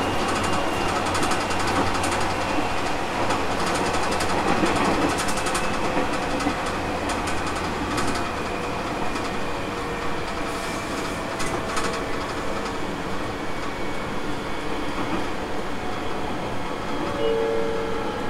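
Aoimori Railway 701-series electric train running along the line, heard from inside the car: a steady rumble of wheels on rail, with runs of clicks from the track in the first half and again about two-thirds of the way through.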